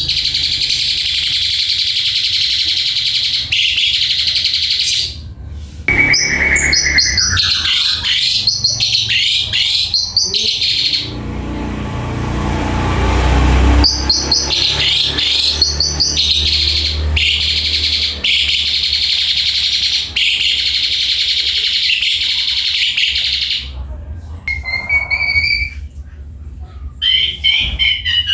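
Asian pied starling (jalak suren) singing a long, fast chattering song mixed with whistled notes, in long runs broken by short pauses. For a few seconds around the middle, a low rumble replaces the song.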